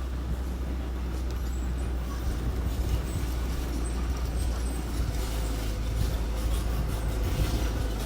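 Diesel engine of earthmoving machinery running steadily with a deep rumble, with more clanking noise in the second half.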